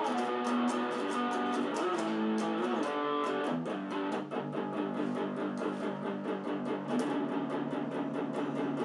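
Cort electric guitar playing a cover, with held and bent notes that give way about midway to a faster, lower riff. It plays over a drum beat with cymbal strokes about four times a second.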